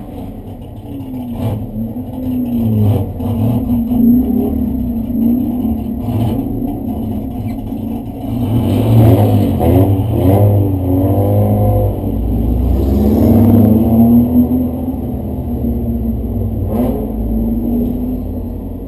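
Race car engine running hard, its revs rising and falling, with a run of quick rev swings through gear changes about halfway through.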